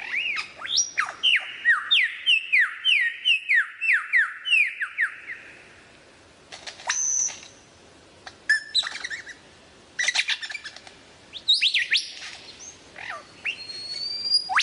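Lyrebird singing: a fast run of sharply falling whistled notes over the first five seconds, then scattered single calls and clicks, with another quick cluster of curved notes near the end.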